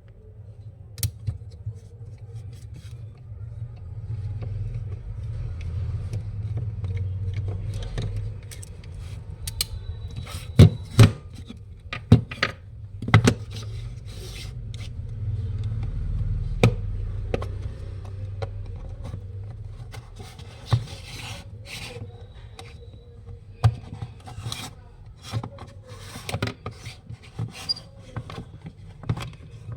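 Plastic casing of a small Bluetooth speaker being pried and worked open by hand: scraping and rubbing with scattered sharp clicks and snaps, several of the loudest coming close together near the middle.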